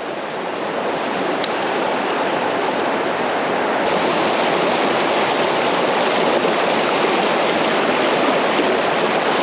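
Creek water rushing over rocks: a steady wash of water noise that grows louder over the first few seconds, then holds.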